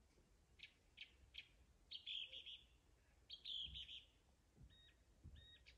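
Faint songbirds calling: a few short high chirps, two quick trills, then two brief level whistles near the end.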